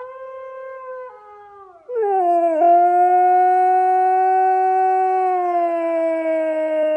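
A husky howls one long, loud note that begins about two seconds in and slowly sinks in pitch. Before it comes a quieter howl from a phone's speaker, which the husky is howling along to.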